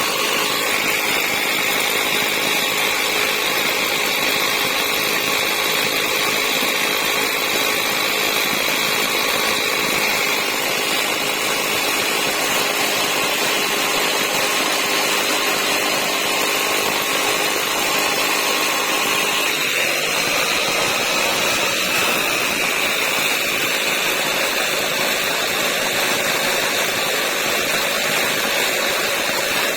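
A motor running steadily with a high whine, its lower tones shifting slightly about twenty seconds in.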